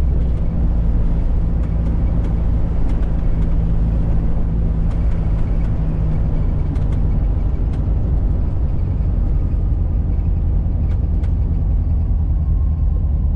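1985 VW Fusca's air-cooled boxer engine running at a steady pitch while driving, with road noise.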